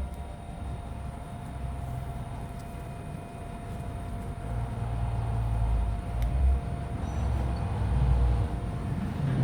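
A puppy gnawing and chewing on a bone close to the microphone: an uneven low rumbling with a few faint clicks, growing somewhat louder after the middle.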